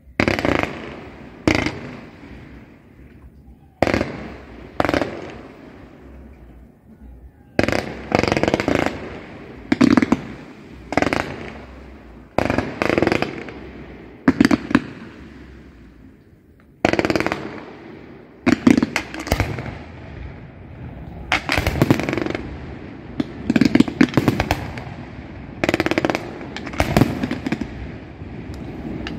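Fireworks display: aerial shells bursting one after another in irregular succession, some in quick pairs, each sharp bang trailing off in a rumbling echo.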